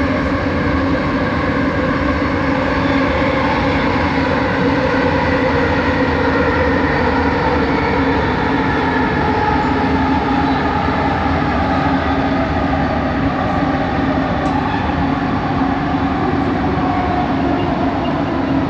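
Kelana Jaya Line train's linear induction motor whining under way, several tones slowly falling in pitch over the steady rumble of the running train.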